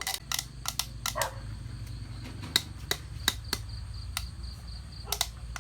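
Steady high chirring of crickets, with about a dozen sharp clicks and knocks scattered irregularly through it, several close together near the start and a pair near the end.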